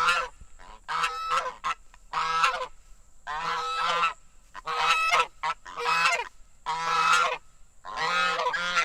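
Domestic geese honking, a run of loud calls coming about once a second.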